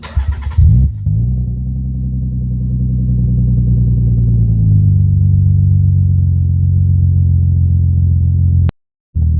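Nissan 300ZX V6 running through an aftermarket cat-back exhaust, no longer muffled: it catches with a brief rev flare in the first second, then settles into a steady, rumbling idle. The sound cuts off abruptly near the end.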